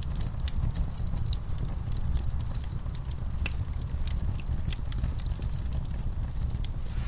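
Wood fire in a fireplace crackling, with sharp irregular pops and snaps over a low steady rumble of the flames.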